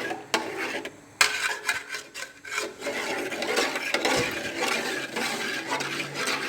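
A spoon stirring in a cooking pot: a few clicks, then continuous scraping and rubbing against the pot from about a second in.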